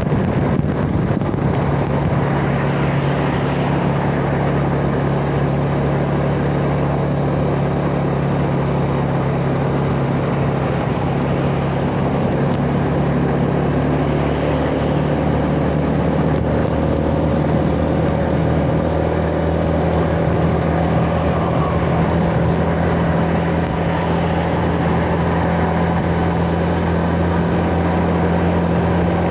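Yamaha Jupiter Z's single-cylinder four-stroke engine running steadily while riding, heard from the rider's seat with wind noise on the microphone. The engine note dips and then settles a little higher around the middle.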